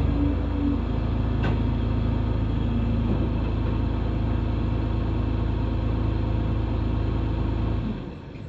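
John Deere 260 skid steer's diesel engine running steadily, then shut off just before the end, the sound dying away quickly.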